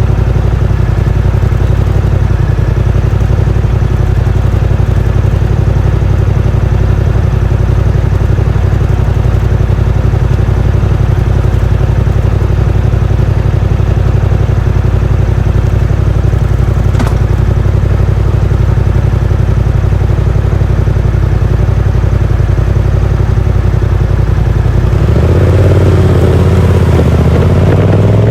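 Yamaha MT-07's 689 cc parallel-twin engine through a Yoshimura R77 exhaust with the dB killer fitted, ticking over steadily at idle. About 25 seconds in it picks up and the bike accelerates away, the exhaust note rising in pitch near the end.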